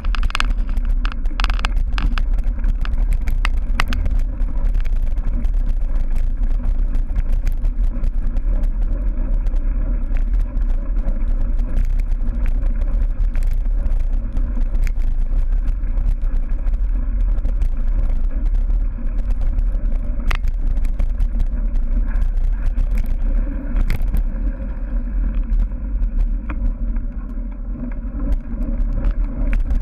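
A cyclocross bike racing over dirt and grass, heard through a rider-carried camera: a steady low rumble of wind and ground noise on the microphone, with frequent clicks and rattles from the bike over the rough course.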